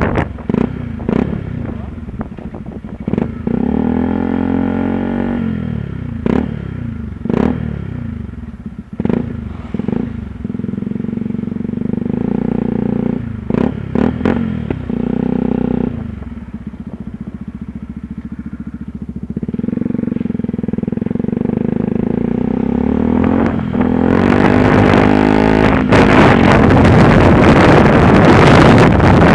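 Yamaha WR125R single-cylinder four-stroke engine under way, its pitch rising and falling again and again as it revs up through the gears. In the last few seconds heavy wind noise on the microphone covers it.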